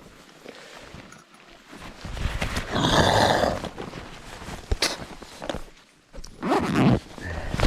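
A man's heavy breaths blowing on the microphone: two loud exhales a few seconds apart, with a few light knocks between them.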